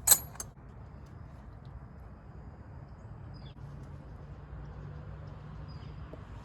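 A sharp metallic clink and a couple of quick clicks at the start, from a hand wrench on the clutch line fitting, then a steady low background hum with two faint short chirps of a bird.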